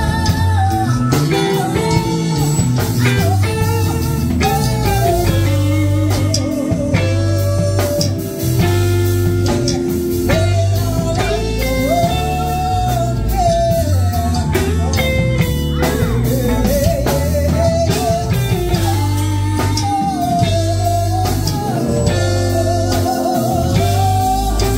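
Live band playing a blues number, with the guitar prominent over a steady bass line.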